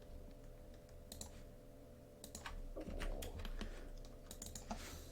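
Faint, scattered clicks of a computer keyboard being typed on, a few keystrokes at a time with short pauses between.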